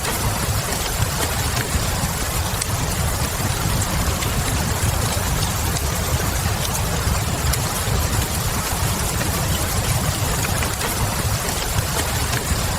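Steady rain hissing over a low, even rumble, with small wood-fire crackles popping here and there.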